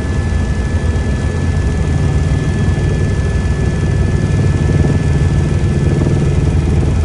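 Steady drone of an aircraft in flight, a low engine-and-rotor rumble with hiss above it.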